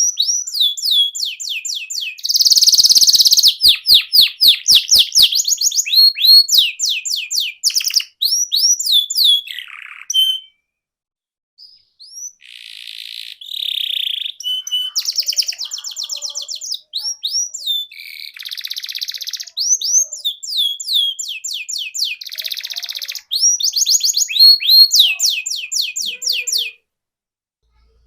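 Domestic canary singing a long, loud song of fast trills and rapid repeated chirping notes, pausing briefly about ten seconds in before starting again.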